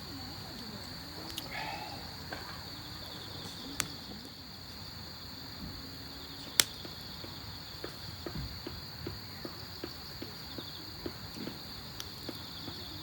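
Steady high-pitched chirring of crickets. A few sharp clicks sound over it, the loudest about two-thirds of the way through, then a run of light irregular taps.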